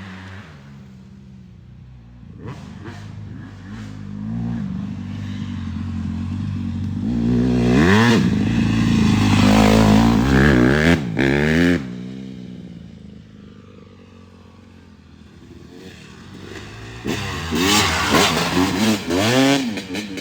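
Dirt bike engine revving hard as the bike rides past. The pitch climbs and drops through the gears, loudest around the middle, and it revs up again near the end.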